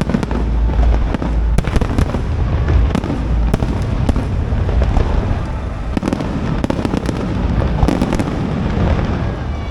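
An aerial fireworks display: a steady low rumble of shell bursts, with many sharp cracks and pops throughout.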